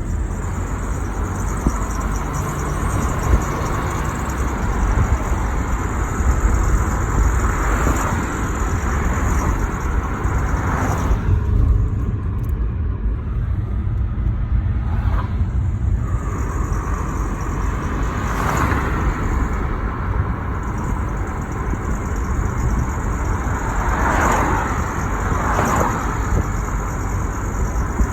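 Nissan Juke on the move: a steady low rumble of engine and road noise, with several brief swells that rise and fall like passing traffic. It was recorded to show a noise problem with the car, which is not named.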